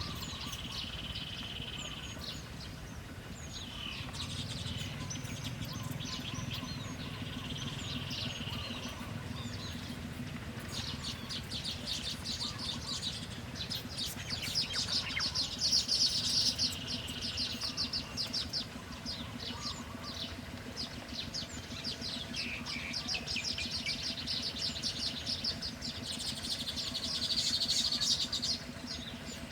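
Small birds chirping and calling, with fast runs of rapid chirps in the middle and near the end, over a steady low hum.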